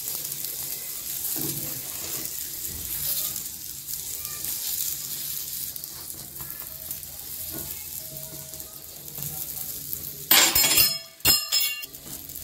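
Ghee sizzling under a radish-stuffed paratha frying on a hot cast-iron tawa, with a steel spoon scraping and spreading it. About ten seconds in comes a loud, briefly ringing clatter of metal utensils.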